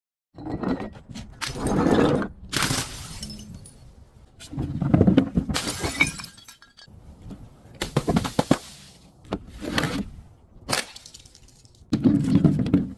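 Glass bottles being crushed and breaking, in repeated bursts of crunching and cracking about every second or two.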